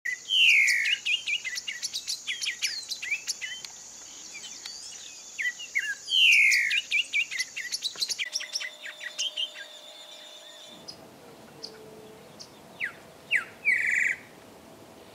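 Grayish saltator singing: loud downslurred whistles, each followed by quick chirping notes, over a steady high insect buzz. After about eight seconds the sound changes, and a few short, loud notes come near the end.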